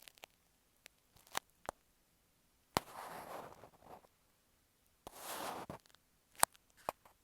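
Fingertips tapping and scratching on an earphone microphone for ASMR: scattered sharp taps, with two longer scratching rubs in the middle, the first about a second long.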